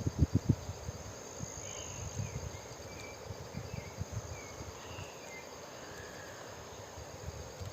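Forest insects keeping up a steady high-pitched drone, with a few short higher chirps over it. A handful of loud low thumps sound in the first half second.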